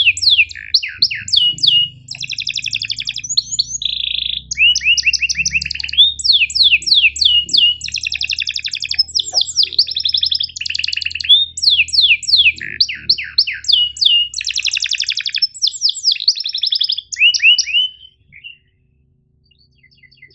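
Domestic canary singing a long, loud song of fast rolling trills and rapid downward-sweeping chirps, which stops about three seconds before the end after one last short note.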